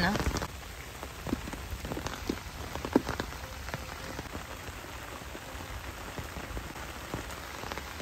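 Steady rain falling, with a few sharp taps about one and a half, two and three seconds in.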